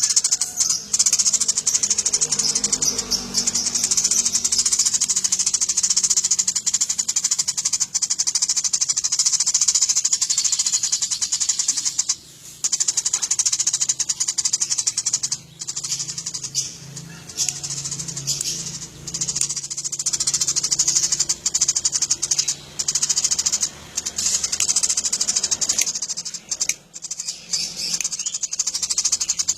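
Eurasian tree sparrows chirping in a dense, continuous high-pitched chatter, broken by a few brief pauses.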